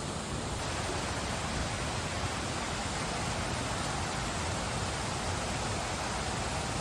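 Steady rush of falling water from a mountain stream's waterfall, an even hiss that holds without change.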